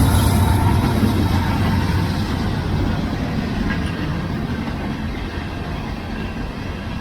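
Empty cars of a Union Pacific rock train rolling past on the rails, a steady rumble of wheels on track that slowly fades.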